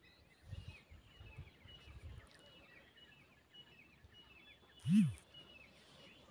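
Faint background of small birds chirping in short, quickly repeated notes, with a few low rumbles in the first two seconds and one brief, louder thump about five seconds in.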